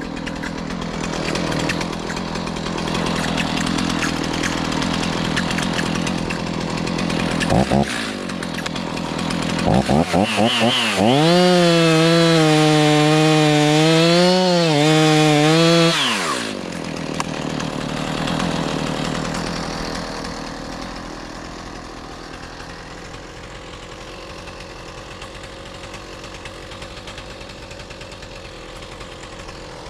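Two-stroke chainsaw running, with a couple of quick throttle blips, then held at full throttle for about five seconds before dropping back to a lower, steady running sound.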